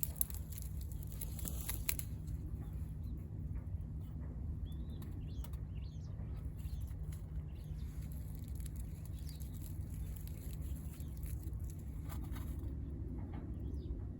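Wood fire burning in a VARGO Hexagon wood stove, crackling with scattered sharp pops over a steady low rumble.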